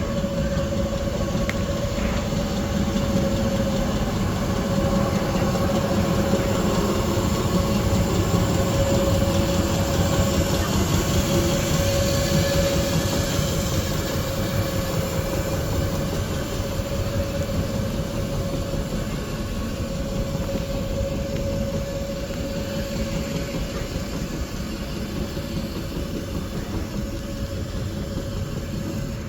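R17 New York City subway car running on the rails, a steady mechanical noise with a constant whine under it. It grows louder toward the middle, then slowly eases off.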